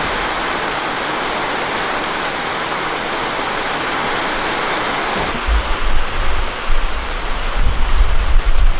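Steady hiss like rain falling. About five seconds in it thins, and uneven low rumbling gusts take over.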